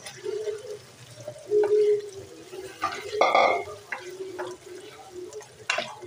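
Spiced chicken pieces going into hot oil and tomato masala in a karahi, sizzling as a wooden spoon stirs and scrapes them, with a loud clatter about three seconds in.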